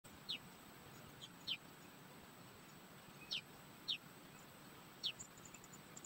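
A bird gives five short, high chirps, each sliding down in pitch, spaced unevenly, over a faint steady high-pitched tone.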